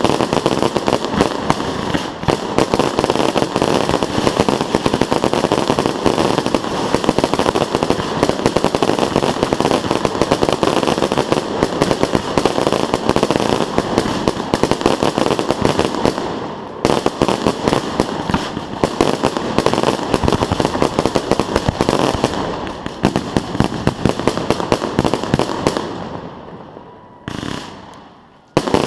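Fireworks display: a dense, near-continuous barrage of firework bangs and crackling, with a brief lull partway through. It thins out and dies away near the end, then one more loud burst goes off.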